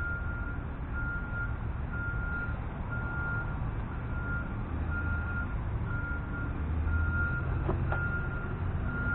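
Garbage truck's reversing alarm beeping, a single high tone about once a second, over a low rumble.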